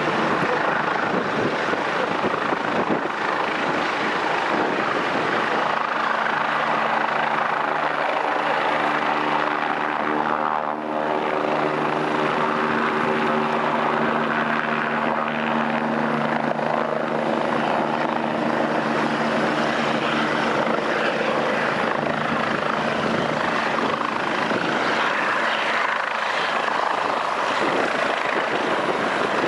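Doctor helicopter running loud and steady, its rotor and turbine noise continuous, with a set of steady tones coming up about six seconds in and fading out after about twenty-four seconds.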